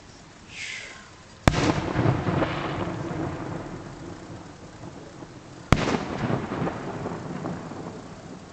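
Two fireworks shell bursts about four seconds apart, each a sharp bang followed by a long rolling echo off the surrounding hills. A brief falling hiss comes just before the first bang.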